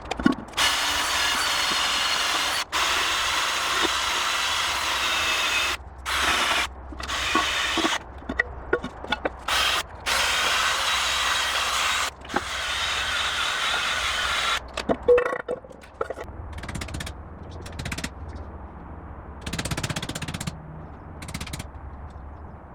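A power tool running in several bursts of a few seconds, the longest about five seconds at the start, followed by quieter scattered metallic knocks and clatter in the second half.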